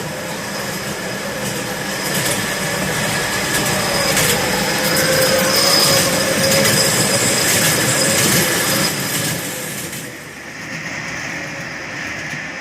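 Mini amusement-ride train running along its up-and-down rail track: a steady rumble of wheels on rail with a thin high whine. It grows louder in the middle and eases off after about ten seconds.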